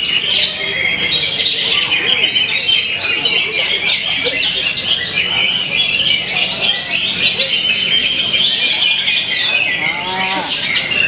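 Several white-rumped shamas (murai batu) singing at once in a songbird contest: a dense, unbroken chorus of whistles, trills and chatter.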